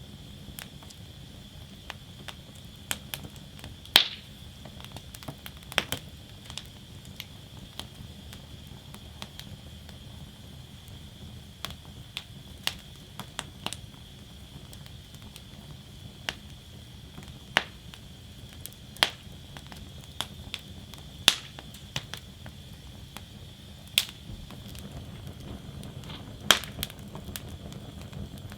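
Wood fire burning in a fire basket, crackling: irregular sharp pops and snaps, a few much louder than the rest, the loudest about four seconds in, over a steady low rumble.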